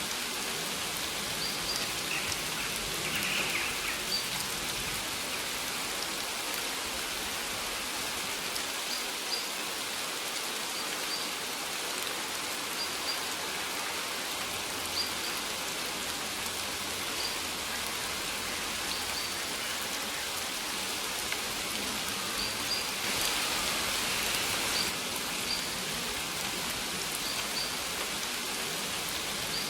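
Steady rain falling, with a bird's short high chirps repeating every second or two over it; the rain swells briefly near the end.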